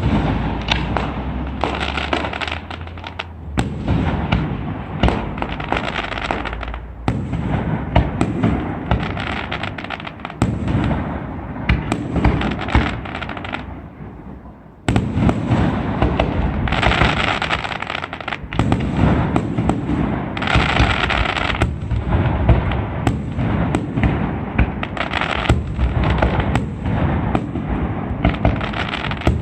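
Aerial fireworks display going off in a dense, continuous barrage of bangs and crackles. It thins out somewhat in the middle, then surges back to full intensity about halfway through.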